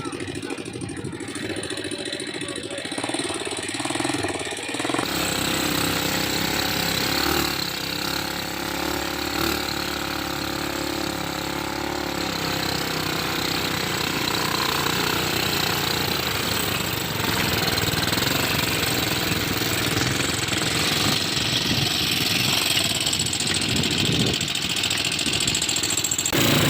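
ATV engine running during a ride, steady throughout. About five seconds in, the sound abruptly becomes fuller and noisier.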